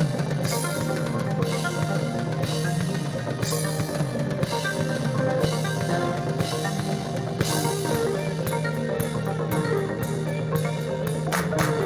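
Instrumental psychedelic rock band playing: a full drum kit with cymbal washes over a held bass and guitar drone. From about eight seconds in, the drums switch to fast, even strokes.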